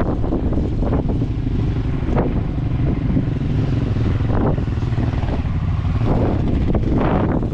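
Steady low rumble of a vehicle riding over a dirt track, with wind buffeting the microphone in gusts.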